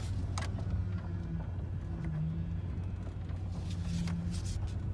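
Dodge Ram pickup's engine running while the steering is turned, with a low power steering grind that swells twice. This is typical of low power steering fluid, which the owner suspects and the reservoir later shows.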